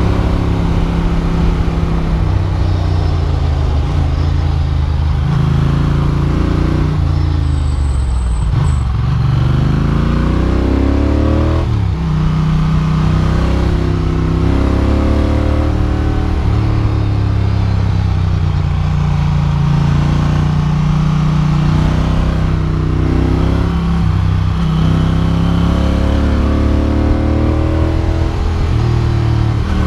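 Ducati Monster's air-cooled L-twin engine heard on board while riding, the engine note climbing and dropping back again and again as the throttle opens and closes through the bends.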